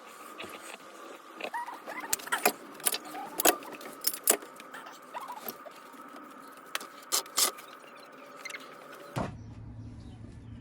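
Irregular sharp metallic clicks and clinks of hand tools and parts, with a few short squeaks, as work is done on a Mazda MX-5's radiator. About nine seconds in, this cuts off suddenly and a low steady hum takes over.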